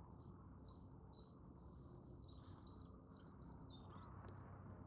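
A small songbird singing faintly: a quick, twittering run of high chirps that lasts about four seconds and then stops.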